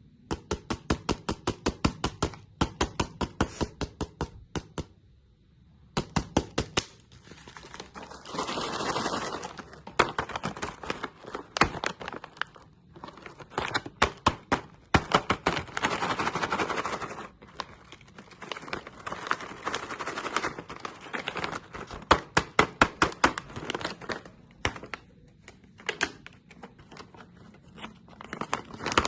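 Hard candy crunching in quick runs of sharp cracks, several a second, broken by short pauses and by stretches of denser crackling.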